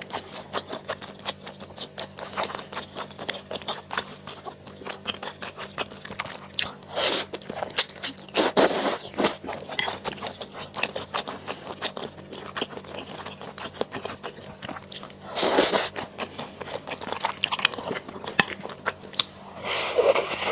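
Close-miked chewing and crunching of mala xiang guo, a steady run of small crunchy clicks with a few louder bursts.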